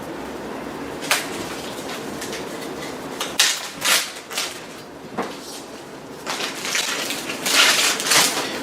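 Kitchen handling sounds: a few sharp clicks and knocks, then crinkling plastic bag rustling for the last couple of seconds.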